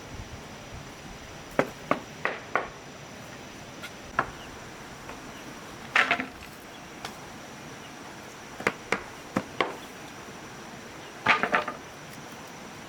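Irregular sharp knocks and clinks, singly and in small clusters of two or three, over a faint steady high-pitched hum.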